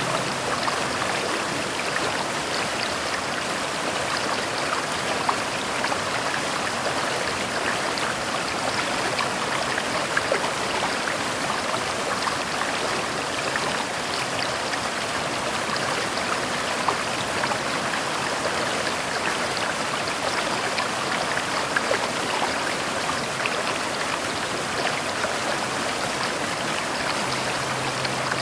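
Steady heavy rain, an even hiss of falling water with scattered small drop ticks.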